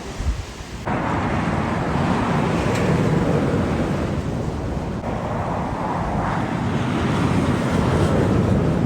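Heavy truck driving past: steady engine rumble and tyre noise, starting abruptly about a second in, with wind buffeting the microphone.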